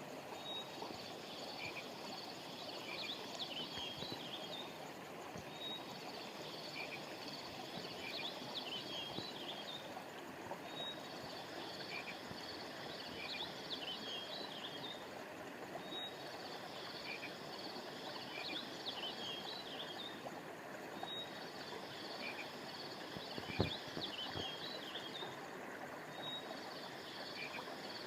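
Flowing river water with high, twittering chirps that come in the same pattern about every five seconds, a looped nature-sound track. A single soft thump late on.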